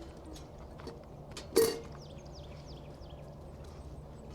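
A steady low hum with faint bird chirps, and one short, loud noise about one and a half seconds in.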